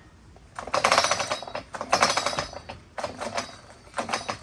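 Stihl 039 chainsaw being pull-started about four times, the recoil starter and engine turning over in quick rattling clicks without firing. Its flywheel key has sheared off, so the saw won't run.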